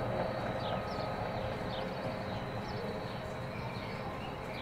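Low rumble of a train slowly fading away, with short high falling chirps about twice a second over it.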